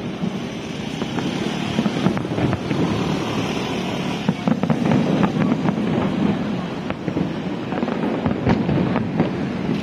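Fireworks display going off, a steady run of bangs and crackles with no pause.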